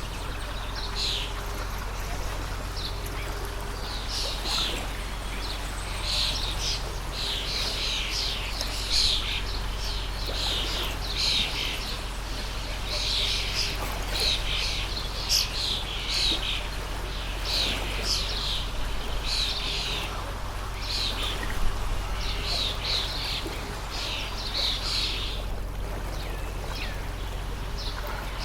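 Small birds chirping in quick, repeated clusters of short calls over the steady rush of a flowing stream. The chirps break off briefly near the end.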